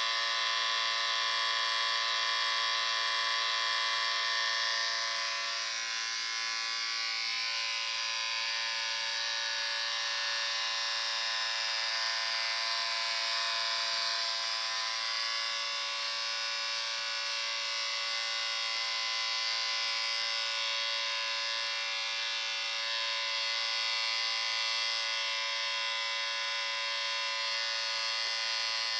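Electric shaver running continuously: a steady, even motor buzz with a bright hiss over it.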